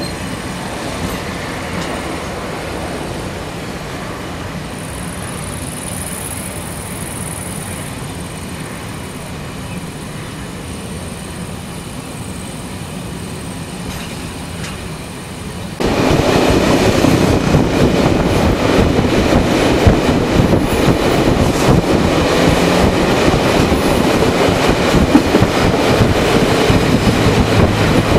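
Running noise of an intercity passenger train heard aboard, a steady rumble that jumps sharply louder about sixteen seconds in.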